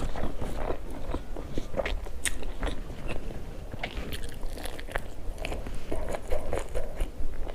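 A person chewing food close to the microphone, with crunchy bites and many small irregular clicks.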